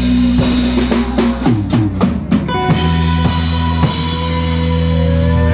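Live rock band ending a song: a drum fill of quick hits about a second and a half in, over a held guitar and bass chord, then a new chord that rings on.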